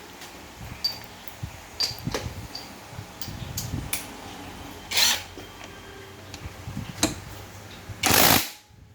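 Tools working on the front pump bolts of a 5R55S automatic transmission: scattered metal clicks and knocks, a short noisy burst about five seconds in, and a louder half-second burst near the end.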